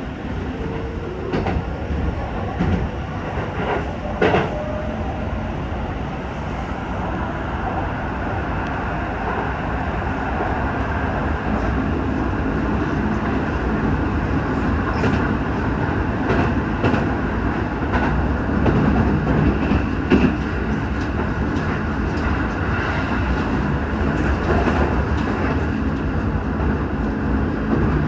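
Shin-Keisei Line local electric train running, heard from inside the passenger car: a steady rumble of wheels on rails with scattered clicks over the rail joints, growing a little louder about a third of the way through.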